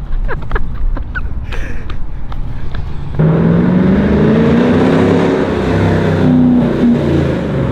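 2015 Chevrolet Camaro 1LE V8 with a very loud exhaust: it rumbles low, then about three seconds in it opens up and accelerates hard, its note rising, dipping and climbing again, echoing off the surrounding buildings.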